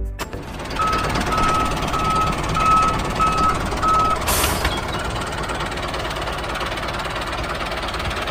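Steady running noise of a mini RC tractor, with a reversing alarm beeping six times at one pitch in the first half. A brief hiss comes a little past halfway.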